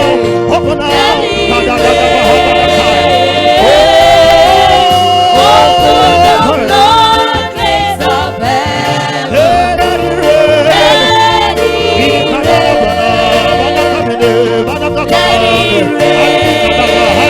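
Gospel worship music: voices singing over sustained held chords.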